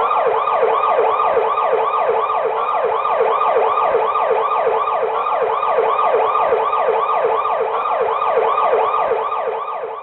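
Electronic emergency-vehicle siren in its fast yelp mode: a rapid rising wail repeating about three to four times a second, starting suddenly.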